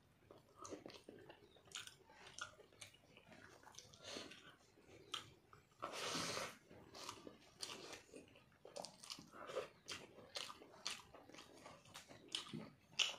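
A person chewing and biting a mouthful of chicken curry and rice eaten by hand, with many short mouth clicks and crunches. There is one longer rushing noise about six seconds in.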